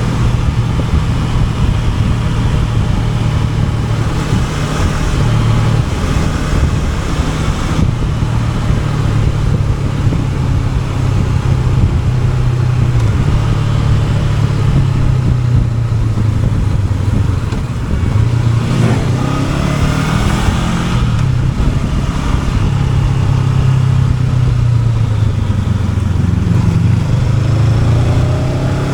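Honda NX500's parallel-twin engine running under way, with a steady hiss of wind over the microphone. The engine note dips about two-thirds of the way through, then rises again as the engine revs back up, and climbs once more near the end.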